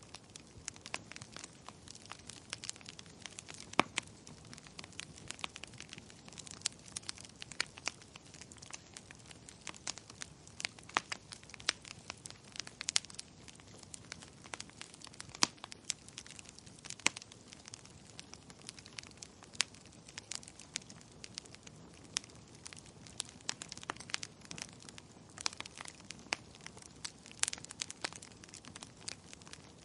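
Wood fire crackling in a fireplace: frequent irregular sharp pops and snaps over a soft steady hiss.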